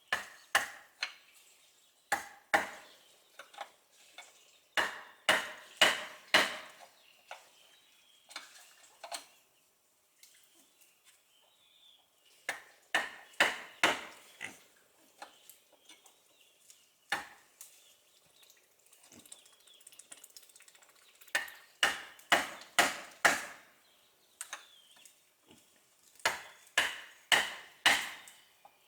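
Repeated sharp strikes of a tool on wood, in runs of several blows about two or three a second, with pauses between the runs.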